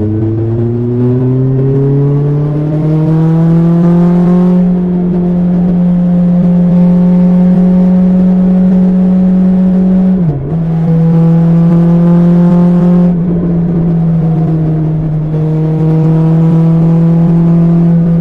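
BMW S1000XR's inline-four engine through an Akrapovic exhaust, pulling up in pitch over the first four seconds, then running at a steady pitch, with a quick gear change about ten seconds in and smaller pitch changes after.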